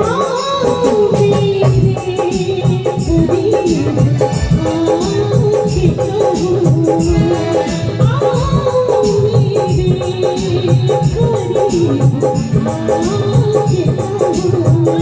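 Instrumental interlude of a Hindi song played by a live stage band: a gliding melody line over a steady, busy percussion rhythm.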